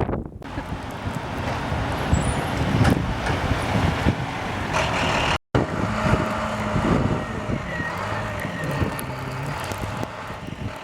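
Heavy snowplow truck engine running, its speed rising and falling as it works. The sound drops out for an instant about halfway through.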